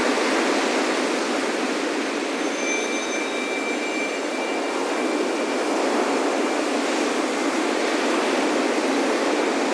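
Steady rush of ocean surf, swelling slightly, with wind chimes ringing faintly: a few high tones hang for a second or two.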